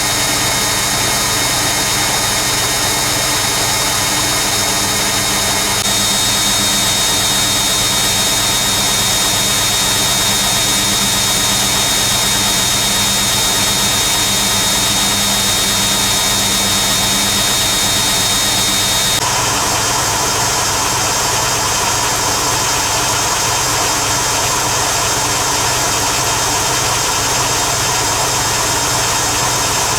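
Hoover Keymatic A3112 twin-tub-era automatic washing machine on its 500 rpm interim spin, heard from inside the drum: a steady machine noise with a high whine, changing in tone about a fifth of the way in and again about two thirds through, where the whine stops.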